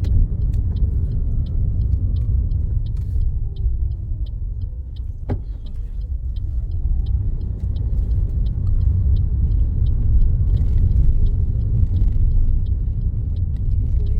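Steady low road and engine rumble inside a moving car. A faint whine falls and then rises again, with one sharp click about five seconds in. A light, even ticking runs through the first ten seconds.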